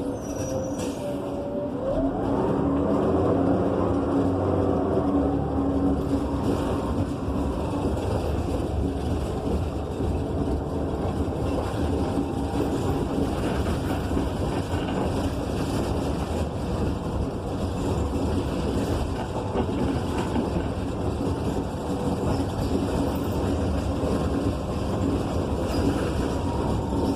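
Inside a 2015 Gillig BRT Plus transit bus under way: its Cummins Westport ISL G natural-gas engine and Allison B300R transmission running, with steady road noise. A pitched whine glides up and down in the first few seconds.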